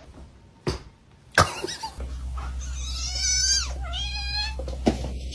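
A cat meowing twice, two drawn-out meows that bend in pitch, after a couple of sharp knocks.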